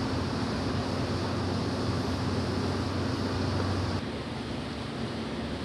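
Steady vehicle engine noise with a low hum, which drops off and gets a little quieter about four seconds in.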